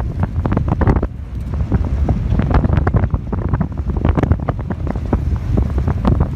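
Heavy wind buffeting the microphone: a constant low rumble with many irregular crackles.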